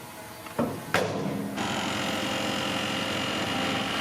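Bulldozer diesel engine running steadily, with two sharp knocks about half a second and a second in.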